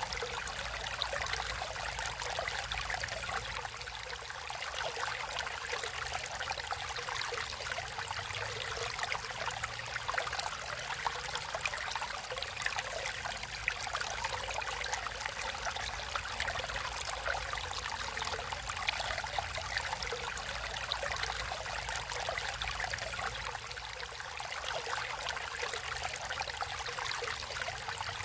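Natural stream water flowing and trickling steadily, a continuous bubbling splash.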